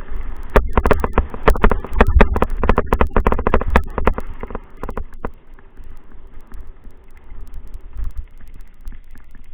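Rapid rattling clicks and knocks over a low rumble of wind on the microphone. The clicks thin out after about five seconds.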